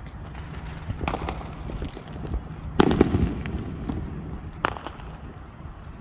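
Fireworks going off: a scattering of small pops and crackles, a bigger bang about three seconds in, and a sharp crack near the end, over a steady low rumble.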